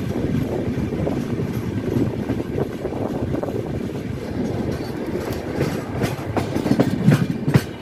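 Sikkim Mahananda Express rolling along, a steady rumble with the clickety-clack of its wheels over rail joints. A run of sharp knocks sounds in the last few seconds.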